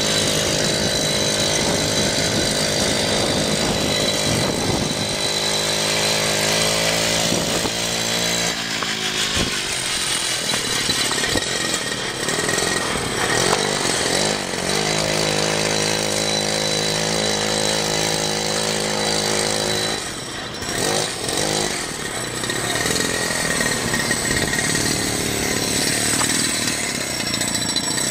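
Pocket bike's small two-stroke engine running, revving up and down between steady stretches, with a brief drop in level about twenty seconds in.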